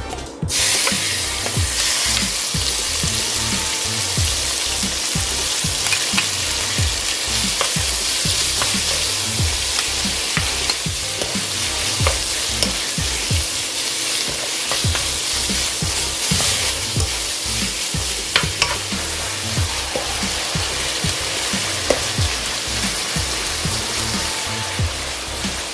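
Beef stir-frying with sliced onion and shiitake mushrooms in hot cooking oil and perilla oil in a nonstick wok: a steady sizzle that starts about half a second in as the meat hits the oil. A wooden spatula scrapes and clicks against the pan throughout.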